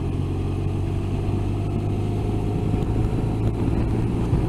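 Motorcycle engine running at a steady cruise: a constant low drone that neither rises nor falls.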